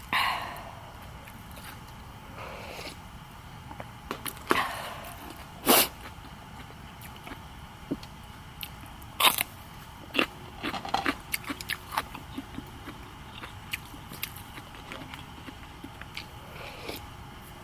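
A person eating: chewing, with scattered sharp clicks and taps of utensils and dishes, over a steady hiss of rain.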